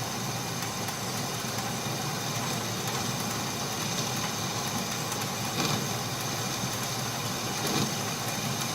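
Atlas metal lathe running steadily, with a small boring bar taking a light cut inside the bore and a faint high steady whine.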